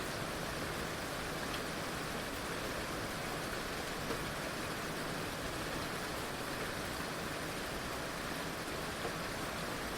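Heavy rain falling steadily, a dense even hiss with an occasional single drop standing out.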